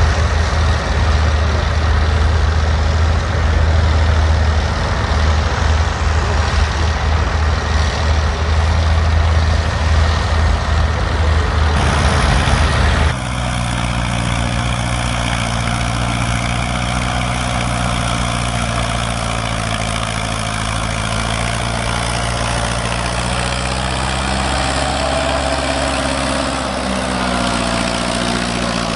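Heavy old engines running: a loud, deep, low engine note for about the first thirteen seconds, then after a sudden change a slightly quieter engine idling steadily with a humming tone.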